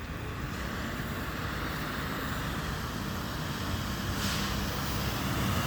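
Waste Management garbage truck's engine running as it approaches, growing gradually louder.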